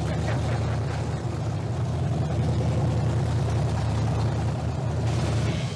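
Chevrolet 350 small-block V8 with a hydraulic roller cam running at a steady idle with no exhaust on it, just started cold. The owner says it sounds pretty good.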